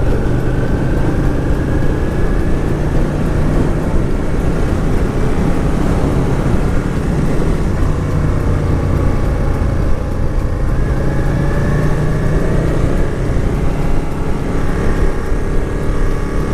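Motorcycle engine running while riding along at road speed, with wind rushing over the on-board microphone. The engine note dips slightly around the middle and then climbs again toward the end.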